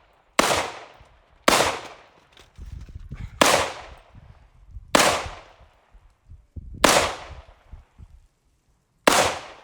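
Six gunshots fired one at a time at uneven intervals, each followed by a short echo that dies away.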